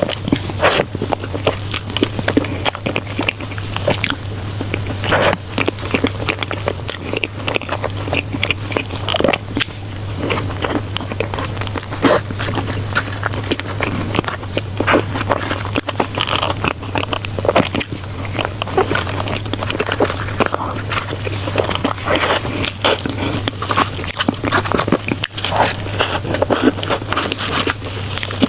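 Close-miked eating: biting and chewing food, with many small irregular mouth clicks and crackles, over a steady low hum.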